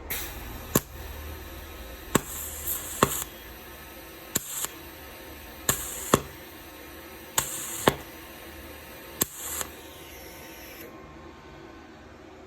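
Welding machine being run in short goes: a steady hiss broken by sharp clicks and short crackling bursts, which cuts off suddenly about eleven seconds in.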